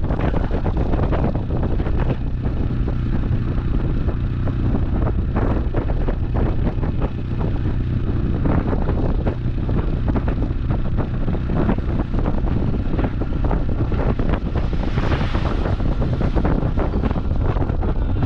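A vehicle running steadily, with a low engine hum, wind buffeting the microphone and frequent small knocks and rattles.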